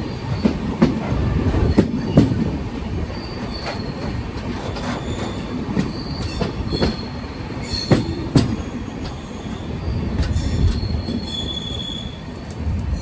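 Janshatabdi Express passenger train running on the track, heard from aboard: a steady low rumble of the coaches with irregular knocks and clatter from the wheels, and a few short, high wheel squeals.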